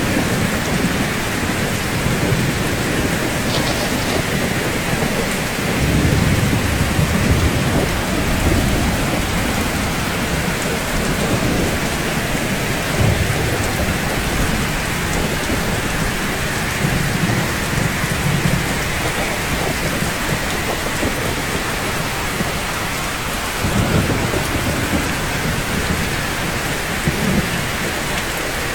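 Steady rain falling, with low rumbles of thunder swelling up several times, strongest about six seconds in and again near twenty-four seconds.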